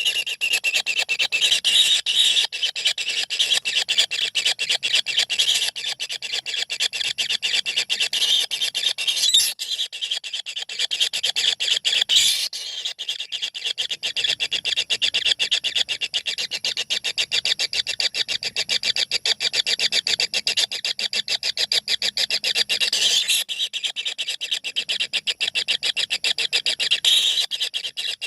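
Several kingfisher nestlings begging inside a nest hole: a continuous chorus of rapid, rasping calls, many pulses a second, with a few louder moments.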